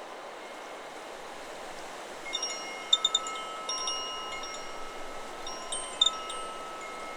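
Chakra Chimes 'Solar Plexus' wind chime struck by the wind, its tubes ringing in overlapping held tones. There is a cluster of strikes a couple of seconds in and another about six seconds in, over a steady hiss of wind.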